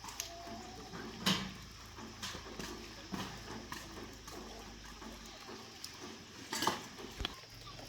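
Irregular light knocks and clinks, as of hard objects being handled, with louder knocks about a second in and near the end. A faint low hum underneath stops a little past halfway.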